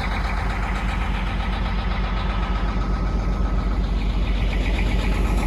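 Converted bus's engine idling steadily, warming up on a cold morning.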